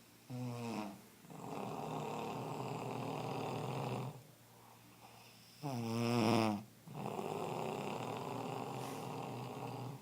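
A dog snoring in two long cycles. Each starts with a short pitched snort and drags on as a noisy breath, and the second snort, about six seconds in, is the loudest.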